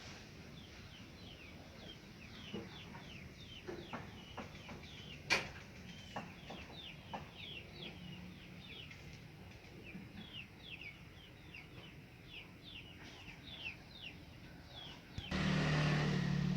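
Small birds peeping over and over in short, high, falling chirps, about two a second, with a few sharp clicks. Near the end a sudden loud rush of noise cuts in.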